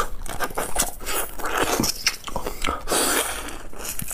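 Close-miked biting and chewing of a cooked shrimp: many short, irregular crunching crackles and wet mouth sounds.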